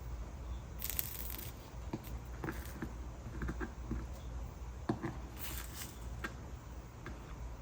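Soldering work on a copper-foiled mixed media piece: small taps and scrapes of the soldering iron and solder, with two short hisses, about a second in and again past the middle, over a low steady hum.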